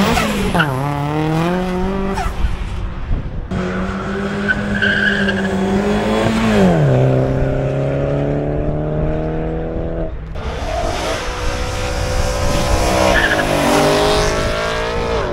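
Car engine revving hard under acceleration. The pitch climbs and holds, then drops sharply at gear changes about a second in and again near the middle, before another run of revs rises and falls near the end.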